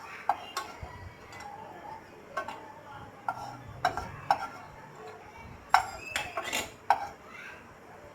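A metal spoon scraping and clinking against a pan as ghee-roasted cashews are scooped out onto a plate, in a run of irregular clinks, the loudest two coming near the end.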